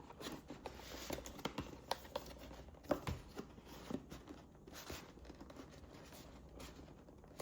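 Cardboard box being worked open by hand, its tight-fitting lid rubbing and scraping, with scattered small clicks and knocks.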